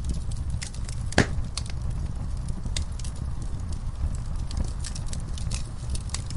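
Wood fire in a fireplace crackling: irregular small pops over a steady low rumble of the flames, with one louder pop about a second in.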